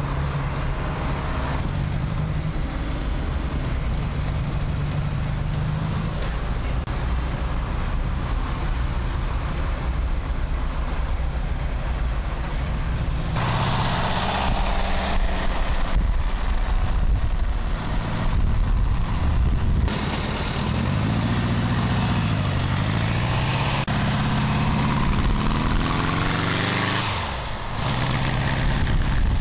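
Revetec X4v2 engine in a GTM trike running in traffic. Its note holds steady for the first dozen seconds, then grows louder and brighter. In the second half it rises and falls through a series of revs, dips briefly near the end and picks up again.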